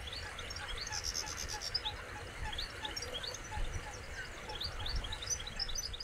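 Several small birds chirping and calling, many short, high, rising chirps overlapping a few times a second, over a low rumble.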